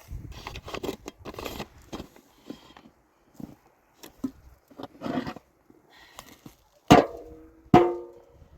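Light clatter and scraping of things being handled, then two loud knocks about a second apart. Each knock rings on briefly, like struck metal.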